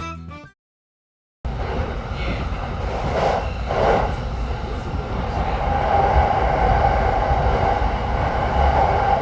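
Background music ends, then after about a second of silence a train is heard running: a steady rumble and rushing noise.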